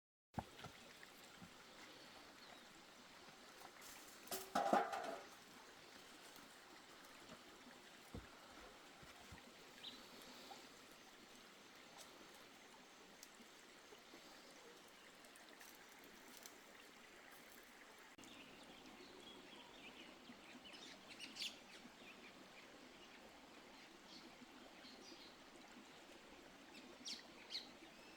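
Faint outdoor ambience with a few short, high bird chirps, mostly in the second half. There is one short, louder sound about five seconds in.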